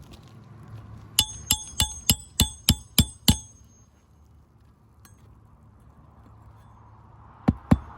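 Hammer striking a roofing nail in an asphalt shingle roof: eight quick ringing metal strikes, about three a second, then a pause and two more strikes near the end.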